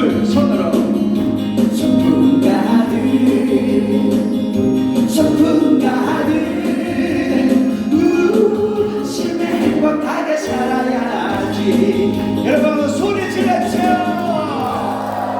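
A class of voices singing a Korean popular song together along with a backing track.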